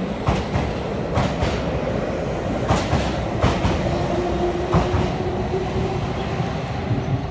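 Nankai Main Line train, a 10000-series set coupled with 7100-series cars, departing and passing close by. Its wheels clack over the rail joints about once a second over a steady rumble, and a steady hum comes in about four seconds in.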